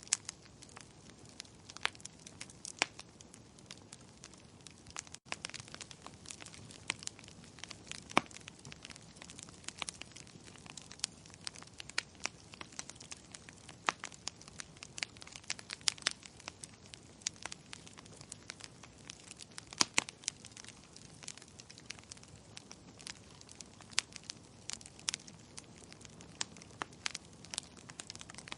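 Wood fire crackling: irregular sharp pops and snaps of burning wood over a faint steady hiss.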